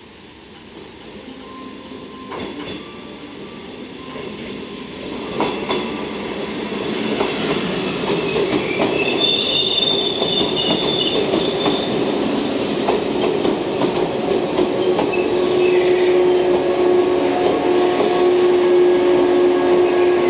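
Three-car JR West 381 series electric train running slowly past, growing louder as it comes closer. Its wheels squeal in short high tones around the middle. A steady lower tone joins near the end as the KuMoYa 145 service car comes by.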